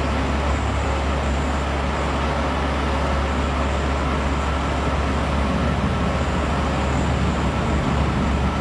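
Steady street traffic noise with a constant low engine rumble.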